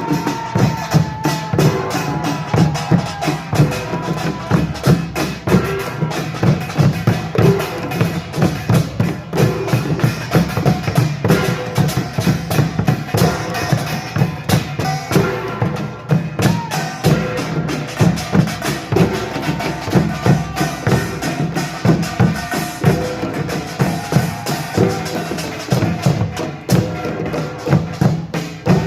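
Korean pungmul folk percussion ensemble playing: small gongs and drums striking a dense, driving rhythm without a break.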